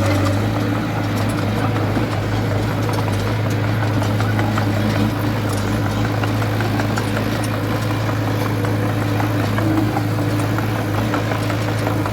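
Heavy construction machine's diesel engine running steadily at an even pitch, with scattered light clicks and rattles over it.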